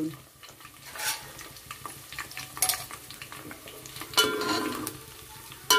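Sun-dried sliced onions frying in hot oil, sizzling as they are stirred, with a spoon scraping and clinking against the pan four or five times.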